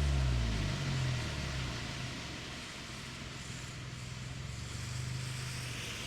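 Exhaust note of a Proton Inspira's 4B11 four-cylinder engine through a MAX Racing R5500 muffler. The revs drop away over the first second or two, then the engine settles into a steady low drone.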